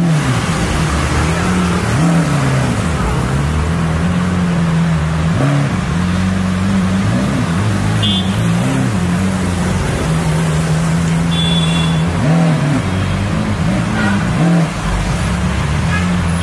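Lamborghini Aventador's V12 engine running at a steady idle and revved again and again, its pitch swelling up and dropping back several times.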